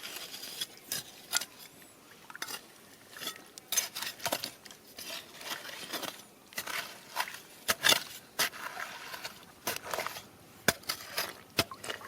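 Irregular clinks, knocks and scrapes of stones and gravel being raked and knocked against each other.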